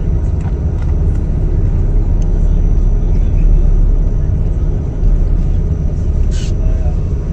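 Loud, steady low rumble aboard a ferry running through choppy sea, with a brief hiss a little over six seconds in.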